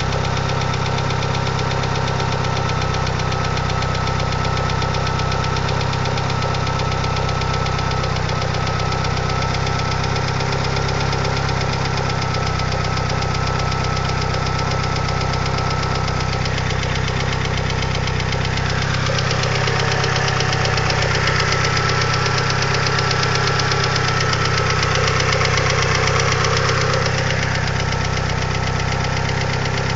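2G DSM engine idling with a steady, fast ticking from its hydraulic lifters, the lifter tick the owner later cured with upgraded 3G lifters. It gets a little louder and brighter for several seconds past the middle.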